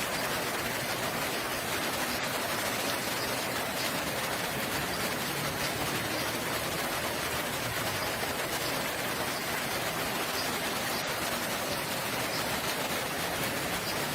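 Steady rain falling, an even hiss at constant loudness throughout.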